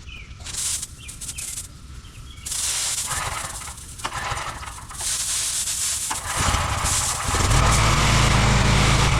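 Clicks and rattles of a hose fitting being handled, then a hiss of spray and a pressure washer's engine coming up to a steady loud drone about seven seconds in.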